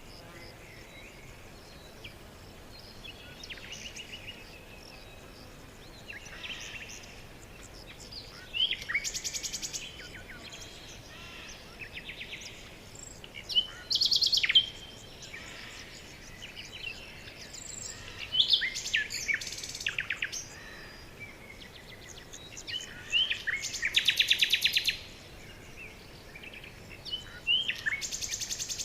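A songbird singing the same short song five times, about every four to five seconds from about eight seconds in: each song is one or two sharp falling notes, then a fast, high trill. Quieter bird calls and a faint steady hiss fill the gaps between songs.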